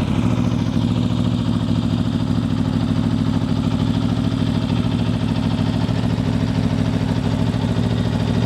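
Aprilia RSV4's V4 engine idling steadily, with no revving.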